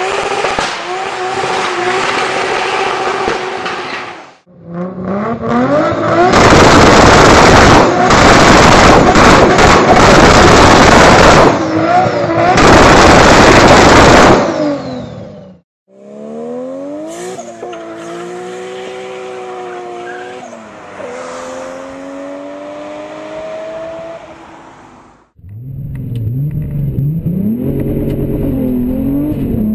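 Toyota Supra MK4's 2JZ-GTE straight-six in a run of short clips joined by sudden cuts. One clip is a hard rev, very loud, with the engine note climbing; another is quieter, with the note rising and falling.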